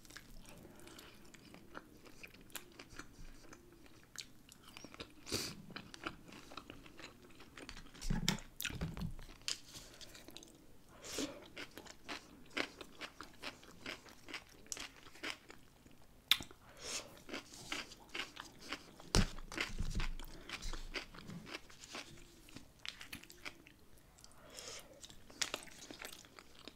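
Close-miked eating sounds: chewing, biting and soft crunches of barbecue ribs and sides, with many small wet clicks and smacks. There are a couple of louder low thumps, about eight and nineteen seconds in.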